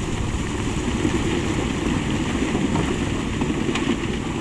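Heavy diesel construction machinery running steadily, a deep continuous engine drone, with a light knock about four seconds in.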